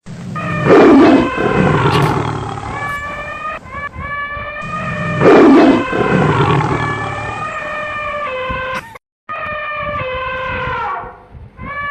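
A big cat roaring twice, the loud roars about four and a half seconds apart, with a steady pitched hum between and after them.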